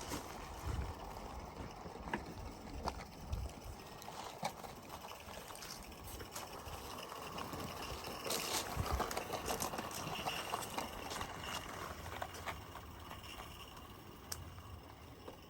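Small live-steam garden-railway locomotive running along the track: a hissing rush of steam with scattered clicks of wheels on the rails, growing louder about eight seconds in as it comes closest, then fading.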